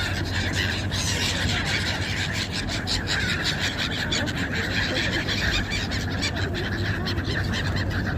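A flock of seagulls calling continually, with many short sharp sounds mixed in, over a steady low hum.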